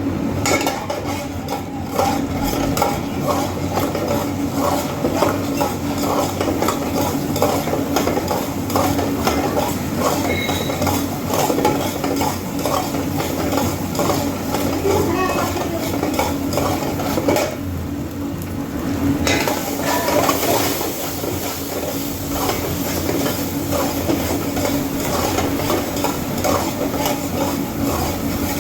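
Metal utensil stirring and scraping rice in a cooking pot, with quick, frequent clinks against the pot over a light sizzle of frying oil. The clatter lets up briefly a little past halfway.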